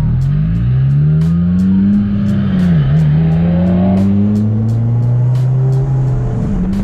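Car engine accelerating, its pitch rising, dropping sharply at a gear change about three seconds in, then climbing again. Background music with a steady beat plays underneath.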